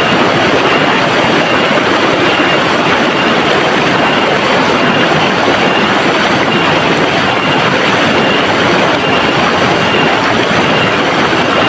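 River water rushing and flowing in a steady, loud, even wash of noise.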